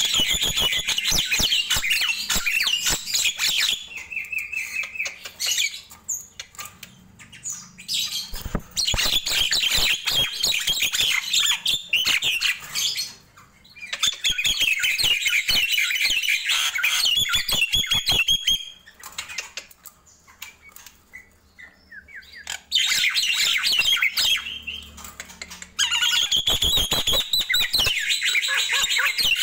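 Nias hill myna singing loud bouts of varied whistles mixed with rapid clicking chatter, with short pauses between bouts, the longest about two-thirds of the way through.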